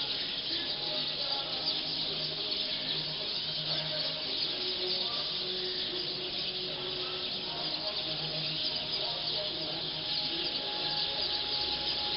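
A large flock of black birds calling all at once as they settle into a roosting tree, a dense, steady chatter of many overlapping chirps.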